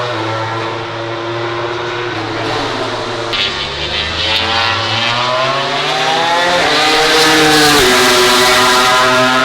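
MotoGP prototype racing motorcycle engines running hard on track. The engine note holds steady at first, climbs in pitch through the middle and drops sharply about seven seconds in, with more than one engine audible at once.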